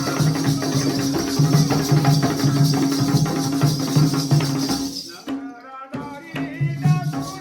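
Jakhadi folk music: repeated drum beats over a steady held drone, with jingling rattle-like percussion. About five seconds in, the jingling stops and a voice comes in over sparser drumming.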